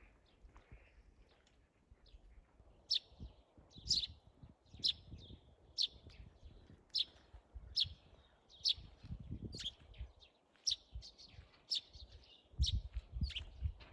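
A bird calling with short, sharp, high notes, repeated about once or twice a second, starting about three seconds in. Low rumbling noise comes and goes underneath.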